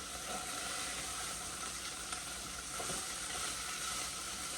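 Diced chicken frying in oil in a pot, a steady sizzle, with a few soft scrapes of a spoon stirring it.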